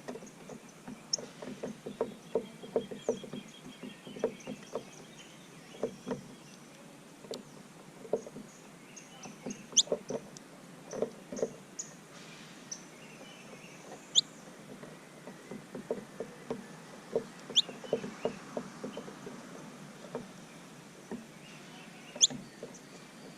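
Small birds feeding at a seed feeder: irregular quick taps and knocks of pecking, with faint high chirps and four sharp, high calls that sweep downward.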